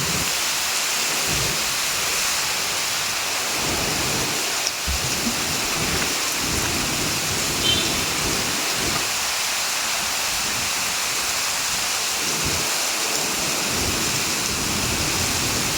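Heavy rain falling steadily as an even hiss, with a low uneven rumble underneath. A brief high chirp comes about eight seconds in.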